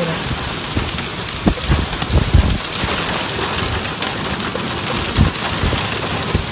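Very heavy rain pouring down in a dense, steady hiss, with scattered low thumps.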